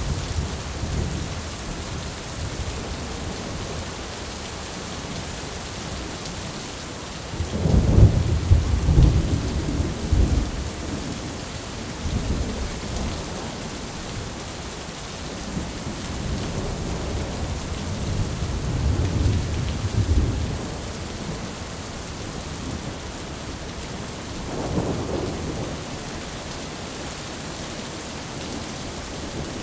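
Steady rain drumming on a tin roof, with rolling thunder rumbling several times. The heaviest rumble comes about eight seconds in, with weaker ones around twelve, sixteen to twenty, and twenty-five seconds.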